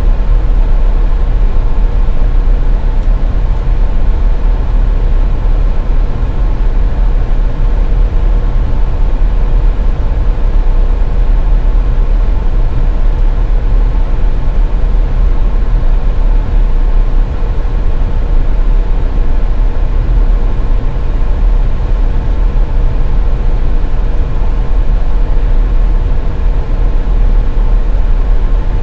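Steady road and engine noise of a car driving on a snowy highway: a loud, unchanging low rumble with a faint constant hum above it.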